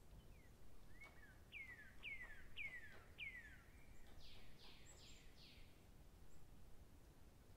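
Faint bird song: a run of about five clear whistled notes, each sliding down in pitch, followed by four rougher, buzzier falling notes, over near silence.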